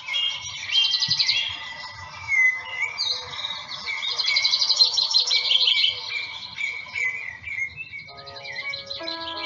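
Several songbirds chirping and trilling at once, in rapid repeated notes. About eight seconds in, soft music with long held notes comes in under the birdsong.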